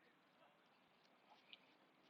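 Near silence, with one faint tick about one and a half seconds in.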